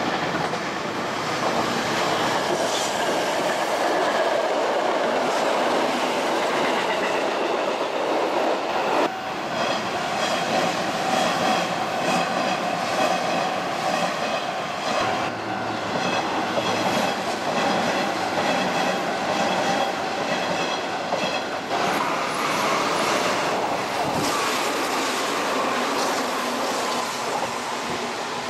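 Sanyo Electric Railway electric commuter trains running along the line, wheels clacking over the rail joints. A high-pitched whine sounds through the middle stretch, and the sound changes abruptly a few times as one train pass gives way to another.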